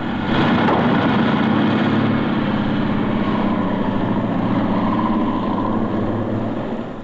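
Cartoon engine sound effect of hovercraft motorcycles running at a steady buzz, dying down near the end.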